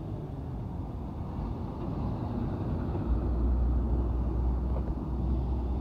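Road vehicle engine and road noise, a steady low rumble that grows louder and deeper about three seconds in.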